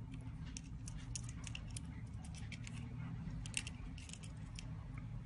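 Light, irregular metallic clicks and ticks of small repair tools handling phone parts, the sharpest about three and a half seconds in, over a steady low hum.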